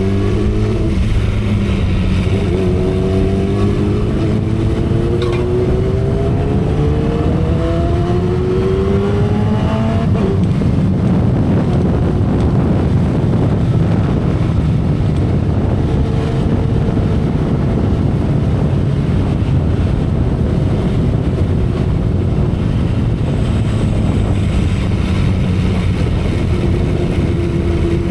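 2012 Kawasaki Ninja ZX-10R's inline-four engine heard from the saddle, its revs climbing steadily for about eight seconds as the bike accelerates. It then settles into cruising, with heavy wind rush over the engine note.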